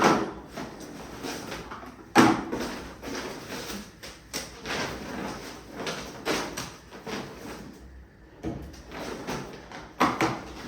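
Household items being handled and set down: a few sharp knocks, the loudest at the start and about two seconds in, another near the end, with lighter clicks and rustling between.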